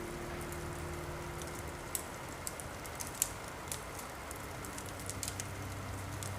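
Steady rain hiss with scattered sharp crackles from a fireplace. Low sustained music tones fade out in the first second and return faintly near the end.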